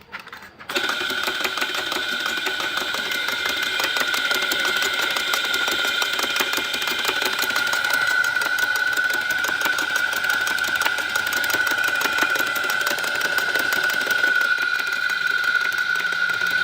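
A small motor-driven machine starts abruptly under a second in and then runs steadily, with a constant high whine over a fast, even rattle.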